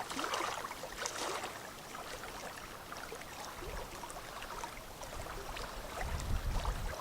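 Small waves lapping and splashing at a lakeshore, with wind buffeting the microphone in low rumbling gusts midway and near the end.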